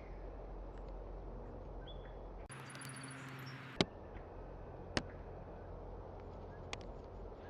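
Backyard outdoor ambience with a low hum and faint, scattered bird chirps. The background changes abruptly about two and a half seconds in, and two sharp clicks come a little over a second apart.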